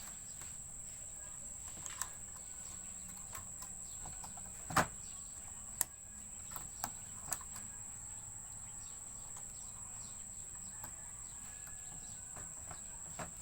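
A few scattered small clicks and knocks as the wire connectors are pushed onto the terminals of a replacement washing-machine water inlet valve, the loudest about five seconds in. Under them runs a steady, high-pitched insect drone.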